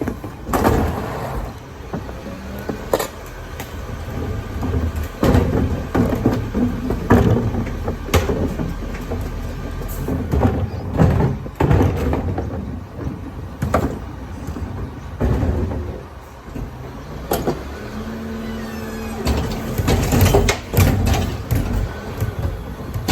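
A garbage truck working at the kerb: its engine runs throughout, under repeated clattering knocks and bangs. A steady hum lasts about two seconds near the end.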